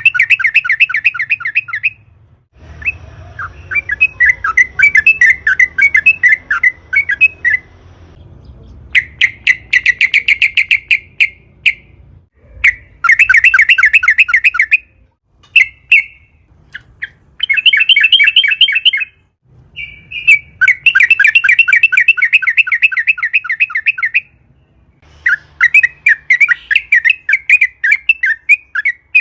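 Yellow-vented bulbul (trucukan) singing: long, rapid chattering trills of quick repeated notes, phrase after phrase with short pauses between them. A faint low hum lies under some phrases.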